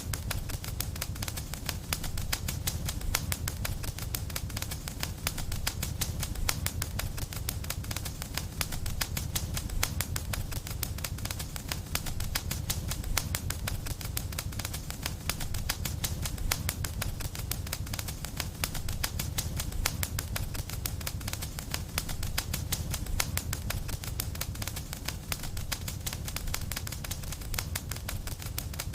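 Wood fire crackling steadily, with dense rapid pops and snaps over a low rumble of flames.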